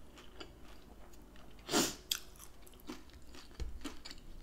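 Close-up chewing of a fried, dough-crusted beef taco empanada: soft wet mouth sounds and small clicks, with one louder noise a little before the middle.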